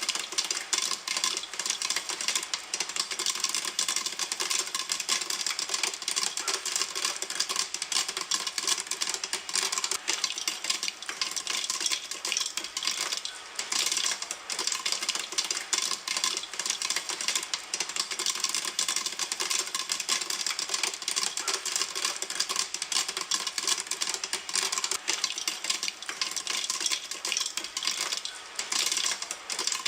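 Popcorn kernels popping in a pan: a dense, steady stream of rapid sharp pops and clicks.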